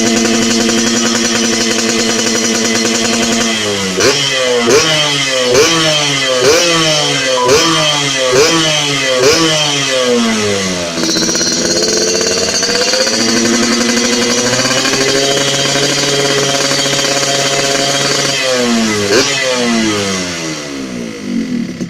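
Two-stroke motorcycle engine through an aftermarket racing exhaust, held at a steady speed, then blipped about nine times in quick succession, roughly once a second, then held steady again with two more blips before it dies down near the end.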